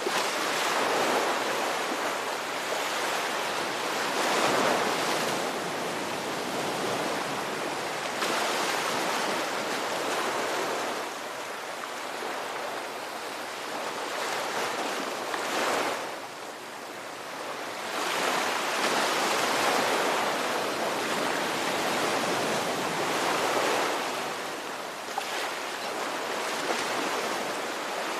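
Ocean surf: waves breaking and washing in as a continuous hiss that swells and falls back every few seconds.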